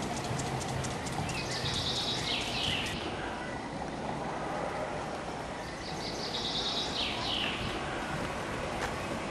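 A songbird singing two short songs, about four seconds apart: each a quick trill that drops in pitch at the end. Under them is a steady outdoor hiss.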